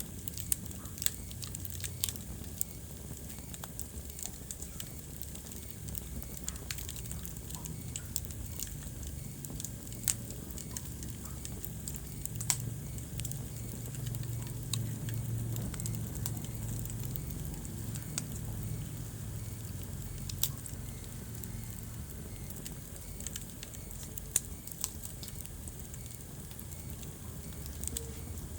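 Wood fire burning in a fireplace: a low steady rumble of flames with irregular sharp crackles and pops, a few of them standing out loudly.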